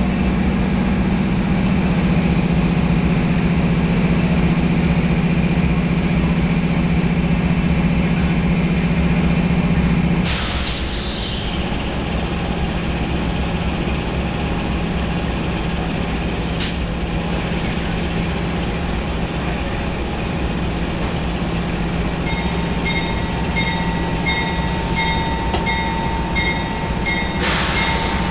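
Amtrak locomotive idling with a steady low hum. About ten seconds in, a loud hiss of air is released and the hum drops. A sharp clank follows a few seconds later, and near the end a high ringing repeats about twice a second, with another short hiss of air.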